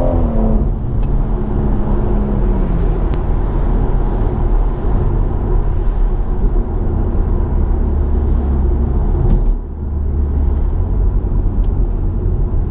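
BMW M140i's turbocharged 3.0-litre straight-six through its M Performance exhaust, heard from inside the cabin: the revs fall away after a burst of acceleration, then the engine runs steadily at low revs with a deep, low note, dipping briefly near the end.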